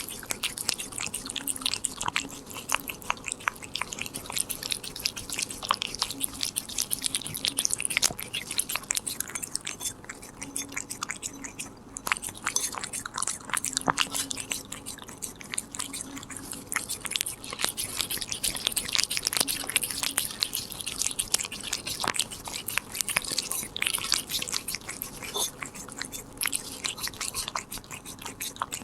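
Korean shorthair cat chewing and crunching a treat: a dense, irregular run of small crisp clicks, easing off briefly about ten seconds in.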